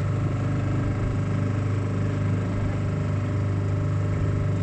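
Small motorboat's engine running steadily at cruising speed, a constant low hum with a stack of steady tones. It is loud enough to be felt as vibration aboard.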